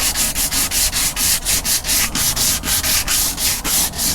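150-grit sandpaper worked by hand over the old paint on a boat's live well, in quick, even back-and-forth strokes. The sanding is lifting loose, peeling paint.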